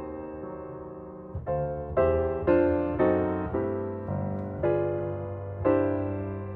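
Background music: a gentle piano melody, notes struck about every half second and fading away.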